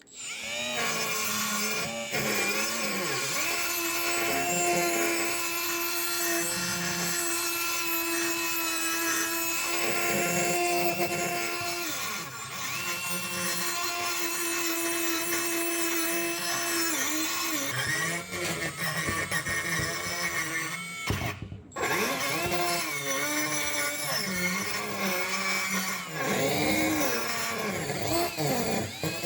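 A power tool running steadily at the bench, its pitch sagging and recovering as it bears on the work. About 21 seconds in it cuts off for a moment, then starts again.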